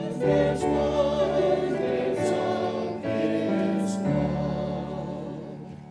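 A choir singing held chords to the close of a Christmas song, the last chord fading away near the end.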